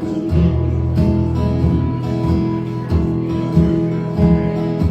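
Live band music without vocals: a strummed acoustic guitar over steady lower instrument tones, in a regular rhythm.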